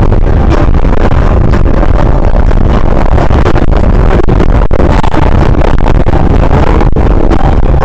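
Loud, steady wind and road noise on a body-worn camera's microphone while riding an e-bike, heaviest in the low rumble.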